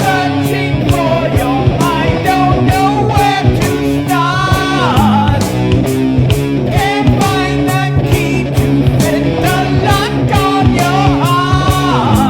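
Heavy rock song: two tracks of electric guitar and a doubled sung vocal with a little reverb over backing drums and bass, with a long sung note about four seconds in and another near the end.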